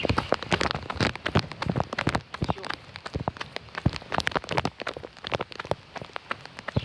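Rain falling, with many sharp, irregular drop impacts close to the microphone over a steady hiss.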